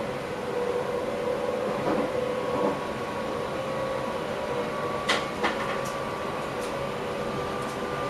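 Electric passenger train running, heard from inside the driver's cab: a steady running noise with a constant whine, and a few sharp clicks, the loudest two a little past halfway.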